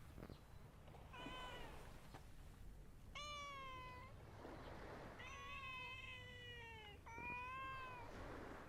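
Domestic cat meowing four times, the third call long.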